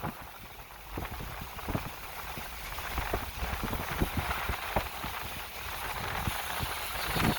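Snowstorm wind hissing across the microphone, with irregular short knocks and crunches, roughly one or two a second.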